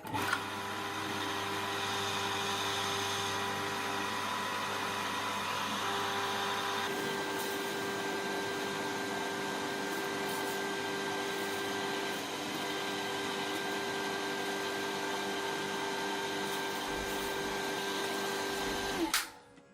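A machine running steadily with a whine over a noisy hiss. It starts abruptly, its tone shifts about seven seconds in, and it cuts off suddenly near the end.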